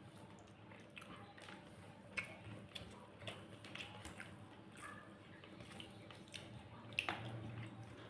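Faint eating sounds: soft wet clicks and smacks of chewing and handling a meal of rice and curry, with a sharper click about two seconds in and another about seven seconds in.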